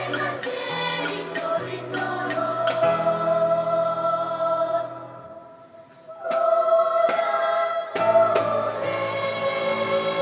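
Children's choir singing with instrumental accompaniment, bell-like percussion strikes at first, then long held notes. The sound fades briefly past the middle, returns with a strike, and ends on a long sustained chord that slips slightly lower.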